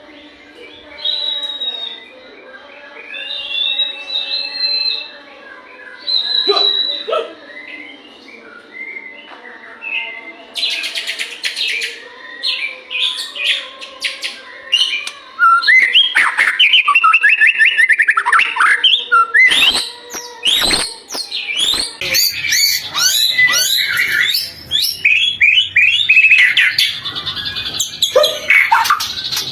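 White-rumped shama singing: softer whistled phrases at first, then from about ten seconds in a loud, fast run of varied whistles, sweeps and sharp chips.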